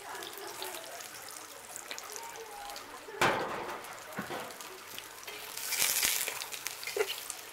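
Champignon mushroom caps sizzling in oil in a cast-iron Dutch oven, a steady fine crackle. A sharp knock about three seconds in, and the sizzle flares louder for a moment around six seconds in as tongs move the mushrooms.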